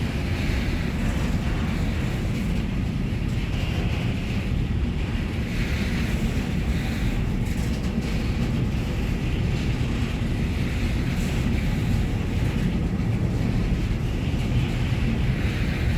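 A train rolling past with a steady rumble, with wind on the microphone.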